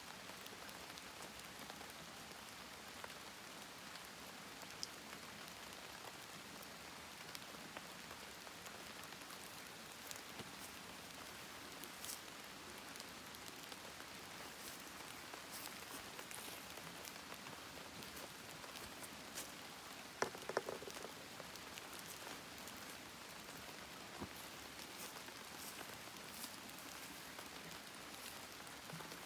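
Wood campfire burning, with a steady hiss and many small crackles and pops, and a louder cluster of pops about two-thirds of the way through.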